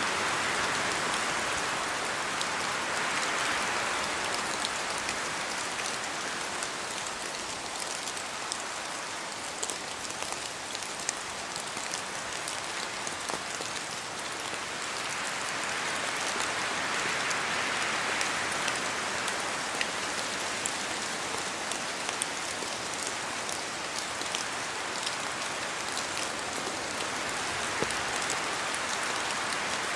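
Steady rain falling in a forest, with drops from the trees making scattered sharp taps. The hiss swells slowly a few times as the wind gusts, near the start, in the middle and again near the end.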